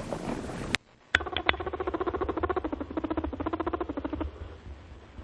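Small animal chattering: after a sudden cut about a second in, a couple of sharp squeaks, then a fast run of pulsed calls with a wavering pitch that eases off near the end.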